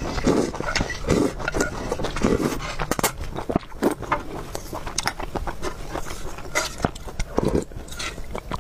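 Close-miked eating sounds: a person chewing food with wet smacks and sharp clicks in an irregular rhythm.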